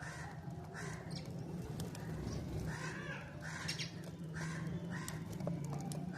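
Sparrows chirping over and over, a short call every half second or so, over a steady low hum.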